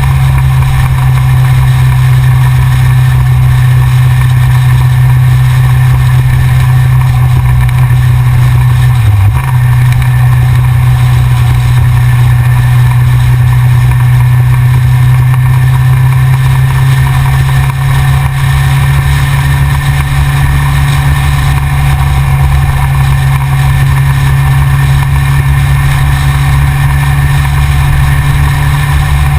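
Yamaha XJR's air-cooled inline-four engine running at steady revs while the bike cruises, with a brief dip in pitch about nine seconds in.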